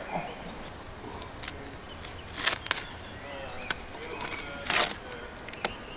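Outdoor quiet with faint bird chirps and a few short, sharp knocks and scrapes scattered through, the loudest a little before the middle and about three quarters of the way in.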